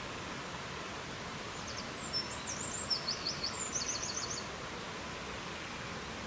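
Steady rushing wind noise, with a forest songbird singing one short high phrase from about one and a half seconds in. The phrase opens with a few separate notes and ends in a quick run of short repeated notes.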